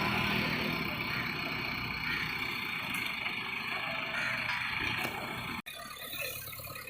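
Diesel engine of a JCB backhoe loader running steadily with a low rumble. About five and a half seconds in, the sound cuts off abruptly and gives way to quieter, scattered sounds.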